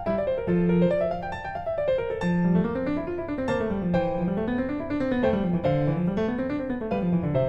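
Background piano music: flowing arpeggios that rise and fall in waves.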